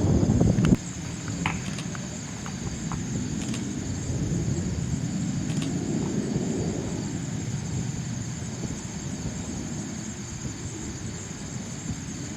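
Dassault Falcon business jet's engines rumbling as it climbs away after takeoff, swelling about halfway through and then easing off, over a thin steady high whine. A louder rush in the first second cuts off suddenly.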